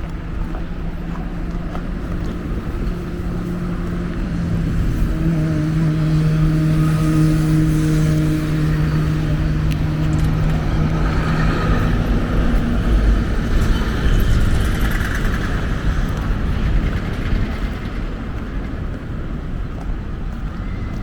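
A motor vehicle's engine hum that swells and then fades as it goes by.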